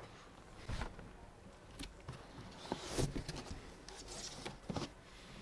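Hands handling computer parts and packaging: a few light knocks and clacks with rustling between them, the loudest cluster about three seconds in.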